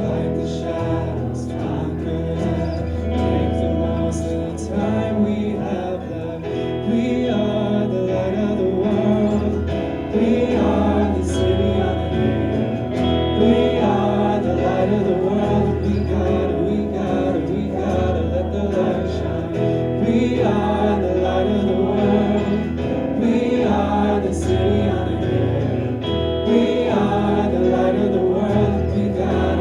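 Live praise band playing an upbeat contemporary worship song while a room full of voices sings along.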